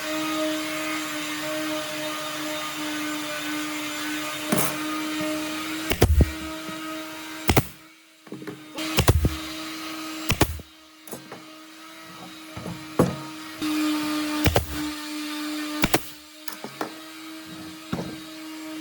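Electric woodworking power tool running with a steady motor hum and whine. It is interrupted by about half a dozen loud knocks and thuds, and the motor sound drops out briefly twice.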